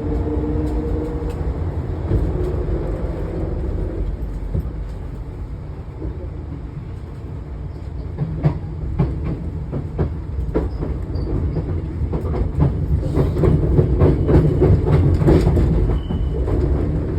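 Train running on the rails with a steady low rumble, a fading motor whine near the start, then wheels clacking over rail joints from about eight seconds in, the clatter growing louder.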